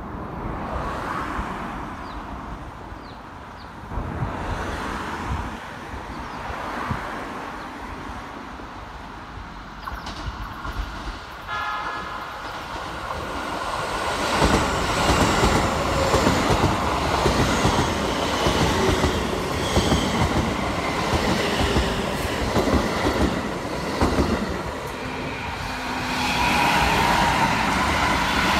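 Keikyu 1000-series electric train sounding one short horn blast about twelve seconds in as it approaches. It then passes close by with loud wheel clatter and running noise, and near the end another train adds to the noise.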